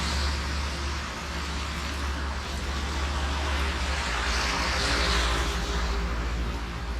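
Steady heavy rain hissing over a low rumble, swelling louder about four to five seconds in.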